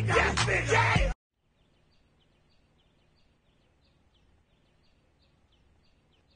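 Music with a beat and vocals cuts off abruptly about a second in. What follows is faint outdoor ambience, with a small bird chirping about two or three times a second.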